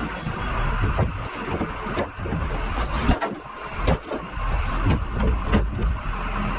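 Loader engine running, with repeated knocks and clanks as it works over chunks of road salt.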